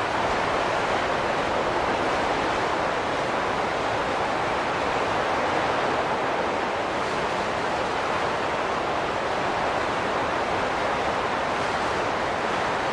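Wind blowing steadily: an even rushing noise with no gusts, lulls or whistling tones.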